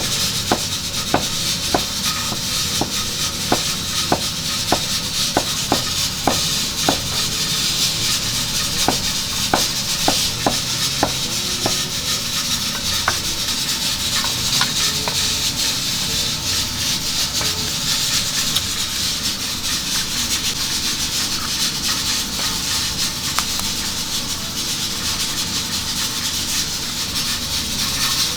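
Steady sizzling hiss of restaurant kitchen cooking, with sharp clicks two or three times a second through the first dozen seconds.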